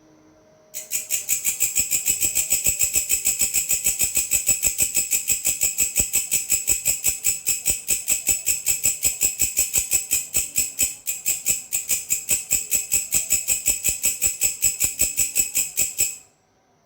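Grasshopper stridulating: a loud, even train of high-pitched pulses, about five a second. It starts about a second in, falters briefly past the middle, and stops abruptly near the end.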